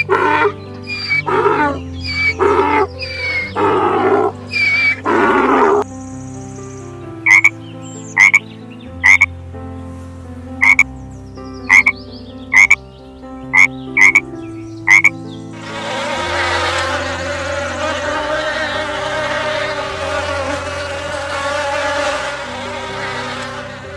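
A run of repeated animal calls, then frog croaks: about ten short, sharp single calls roughly a second apart. From about two-thirds of the way in, a dense insect buzz takes over. Soft background music plays underneath throughout.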